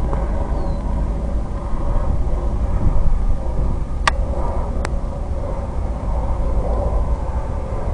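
Strong wind buffeting the microphone, a steady low rumble, with two sharp clicks about four and five seconds in.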